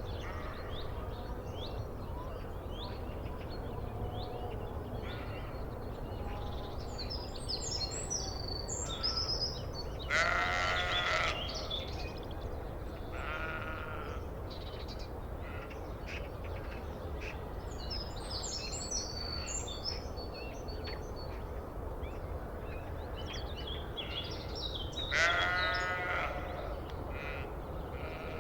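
Sheep bleating: two long, loud bleats, about ten seconds in and again near the end, with a fainter one in between. Small birds chirp at times over a steady low background noise.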